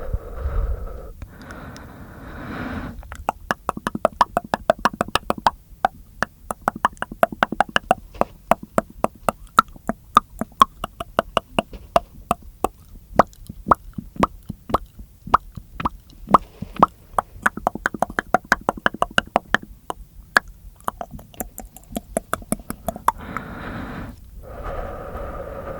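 Close-miked mouth sounds: a long, uneven run of sharp wet tongue clicks and lip pops, several a second. It is framed by a few seconds of softer steady rushing sound at the start and near the end.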